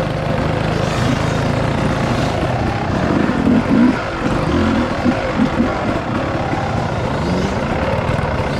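A motor vehicle's engine running steadily, with a few brief louder moments around the middle.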